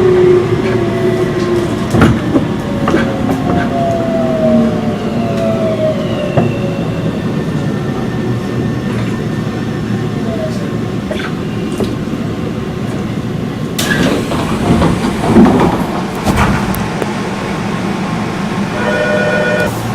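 Tobu 30000 series electric train's Hitachi IGBT VVVF inverter whining in falling tones as the train slows under braking, over steady wheel and rail running noise. About fourteen seconds in there is a sudden hiss, followed by a few clunks.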